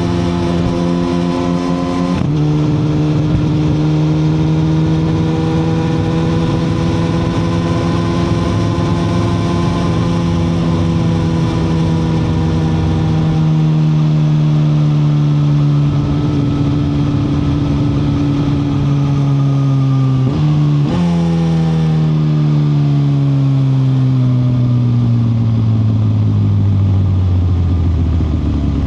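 2021 Suzuki GSX-R1000R's inline-four engine running on the road: an upshift drops the revs about two seconds in, then it holds a steady pitch. About two-thirds of the way through the revs dip and jump up in a downshift, then fall steadily as the bike slows, with wind noise underneath.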